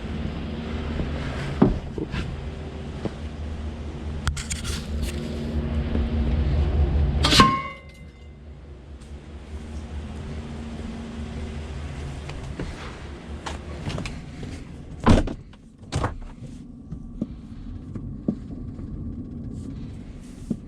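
Truck engine running on the road, with a steady low hum that grows louder for the first seven seconds or so. About seven seconds in comes a sharp loud crack with a brief ring, after which the engine sound drops much quieter. Two sharp knocks follow later.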